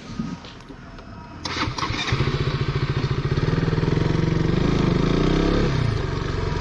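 KTM RC single-cylinder motorcycle engine starting about two seconds in after a few clicks, then running and revving, its pitch climbing steadily before easing off near the end.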